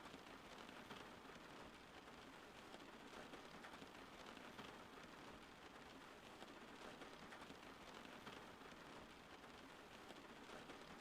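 Steady rain, a faint, even hiss of falling water flecked with many small drop impacts.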